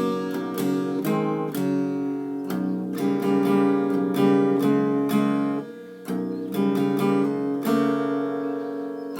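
Acoustic guitar in a drop tuning playing a simple melody, single plucked notes mixed with strummed chords, with a brief pause about six seconds in.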